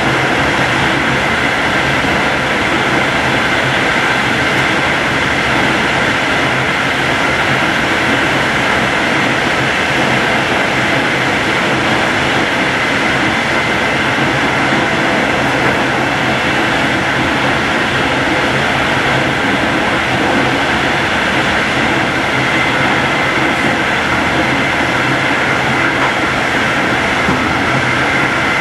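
Passenger train running at speed, heard from inside: a steady, unbroken running rumble with a faint steady hum of tones over it.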